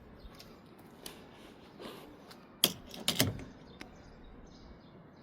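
A few sharp clicks and light knocks, the loudest about two and a half seconds in, followed half a second later by a quick cluster of clicks, with fainter single ticks around them.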